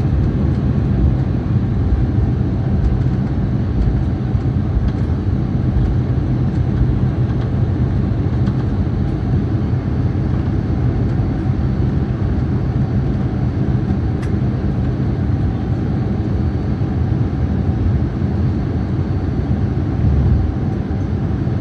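Steady low rumble inside a jet airliner's cabin, with engine hum, as the plane rolls along the ground just after landing.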